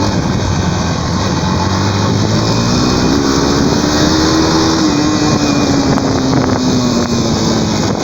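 Motorcycle engine running on the move, its pitch climbing over a couple of seconds and then slowly falling back as it eases off, with wind rushing over the microphone.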